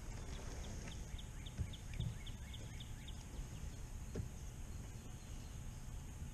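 A small bird calling a quick series of short falling notes, about four a second, for roughly three seconds, over a low steady outdoor rumble, with a few dull thumps.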